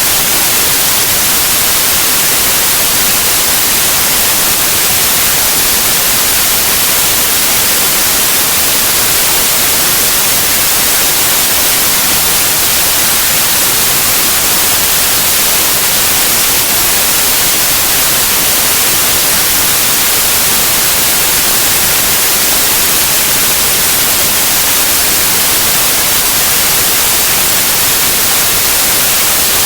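Steady white noise: a loud, even hiss that does not change.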